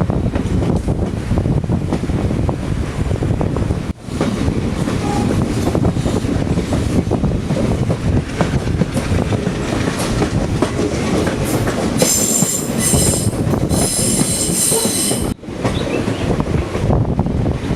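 Passenger train running along the track, its wheels rumbling and clattering over the rails. A high metallic squeal of the wheels sets in about twelve seconds in and lasts around three seconds.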